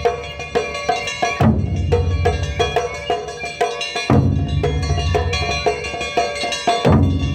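Japanese taiko drumming: three heavy booming strokes on a large drum, about 2.7 s apart, with a quick run of lighter, sharp wooden-sounding strikes between them, over held pitched tones.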